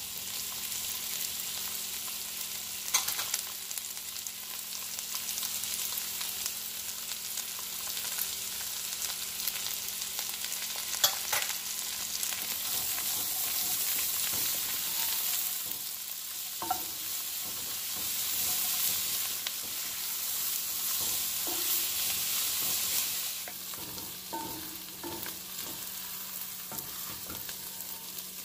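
Diced onion, bell pepper, celery and garlic frying with sliced andouille sausage in bacon fat in an enameled pot, sizzling steadily while a wooden spoon stirs them, with a few sharp scrapes and knocks of the spoon against the pot. The sizzle grows louder midway and eases near the end.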